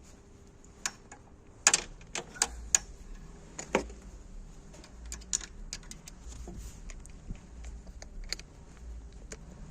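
Irregular sharp metallic clicks and clinks of hand tools as a compression tester fitting is screwed into a spark plug hole, with a cluster of louder knocks in the first few seconds.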